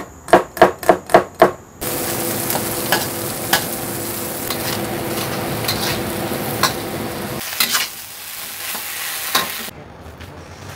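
A cleaver chopping garlic and shallots on a cutting board, about four quick strikes a second, stopping about two seconds in. Then oil sizzles steadily as food is stir-fried in a wok, with the spatula scraping and clicking against the pan, fading near the end.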